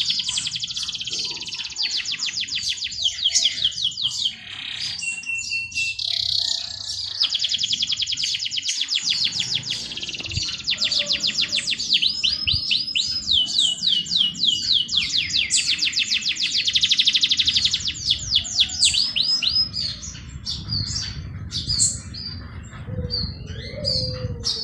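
Songbirds singing in long, rapid trills of quickly repeated notes, one trill running into the next, with shorter scattered chirps near the end. Low, steady background noise lies underneath from about halfway through.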